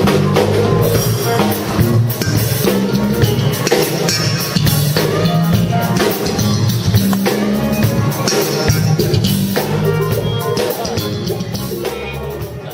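A band playing with a drum kit beat; the music fades down near the end.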